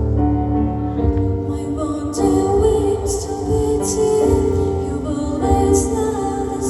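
A slow, gentle song: a female voice singing held notes over instrumental accompaniment.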